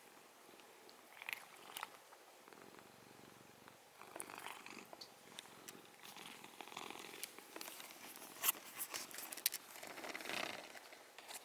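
A domestic cat purring close to the microphone, stronger from about four seconds in, with a few sharp clicks.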